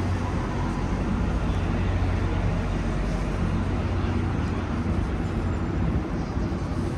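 City street ambience dominated by road traffic: a steady rumble with a low, even engine hum.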